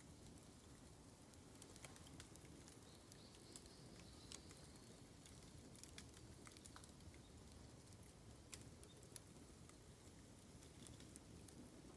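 Bamboo burning on an open fire, crackling faintly with scattered sharp pops.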